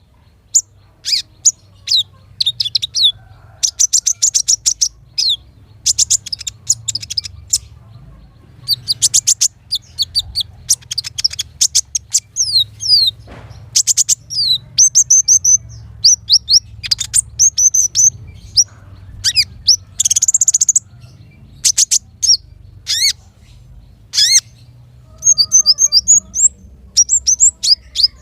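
Small songbird singing in bursts of high, thin chirps and fast trills, phrase after phrase with short pauses between.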